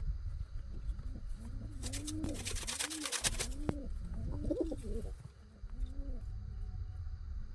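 Pigeons cooing: a run of repeated low coos, each rising and falling. About two seconds in, a rapid clatter lasts for over a second.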